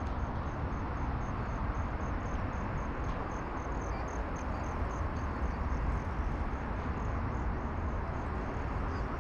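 An insect chirping in a steady, even pulse, about three high-pitched chirps a second, over a constant low rumble of background noise.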